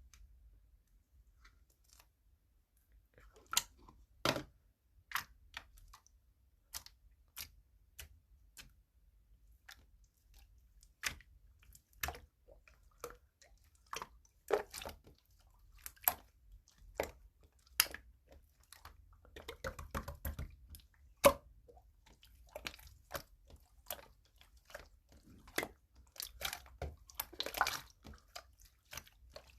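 Slime being pressed, stretched and folded by hand, giving irregular sticky clicks and pops, with denser squelching stretches about two-thirds of the way through and near the end.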